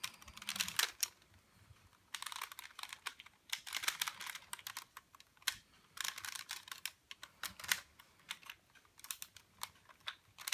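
Plastic parts of a Transformers Optimus Prime action figure clicking and rattling as they are handled and pressed into place, in several short runs of rapid clicks with brief pauses between.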